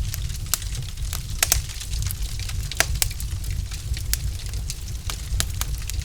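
Log fire crackling: irregular sharp pops and snaps, several a second with a few louder ones, over a steady low rumble of burning.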